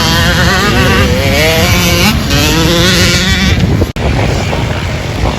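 Dirt bike engine running under load, its pitch wavering up and down as the throttle is worked, with a brief sudden dropout about four seconds in.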